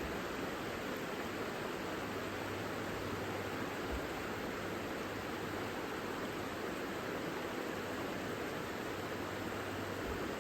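Savica river water rushing steadily, an even, unbroken rush.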